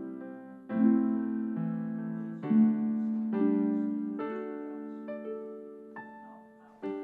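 Background piano music, slow chords and single notes struck and left to fade.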